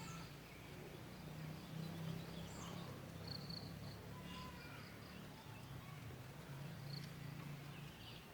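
Faint outdoor ambience: scattered short, high-pitched chirps, some in quick runs of several, over a low steady hum.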